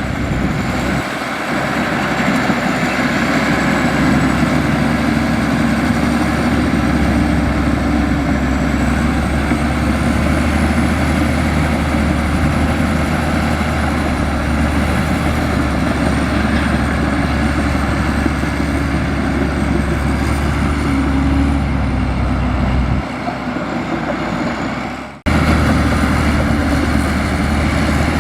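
Heavy diesel engine of a Komatsu bulldozer running steadily while working. Near the end the sound drops briefly, then cuts off abruptly and comes straight back.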